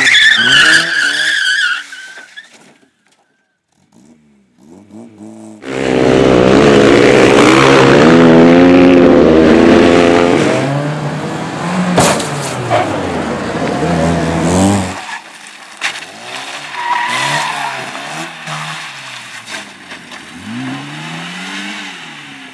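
Racing car engines at high revs with tyre squeal, in several separate clips. A short gap near silence falls a few seconds in. Then a long loud stretch of engine noise, and after that cars pass with their engine note rising and falling.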